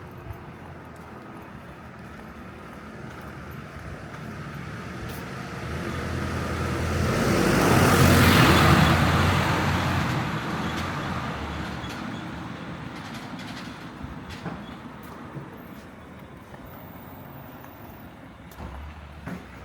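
A motor vehicle passes close by on the street: its noise swells over several seconds, is loudest about eight seconds in, then fades away, over steady traffic noise.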